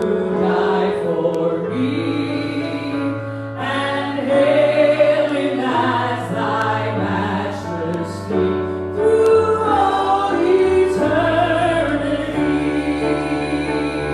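Congregational worship song: a choir or worship team singing together over a sustained bass and instrumental backing.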